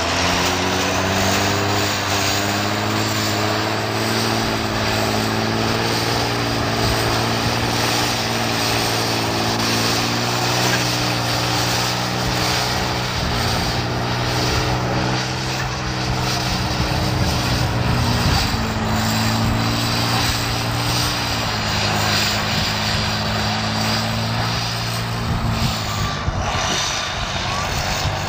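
Pulling tractor's engine running loud and steady at a nearly constant pitch, with a dense rushing noise over it, as it works under load in a tractor pull.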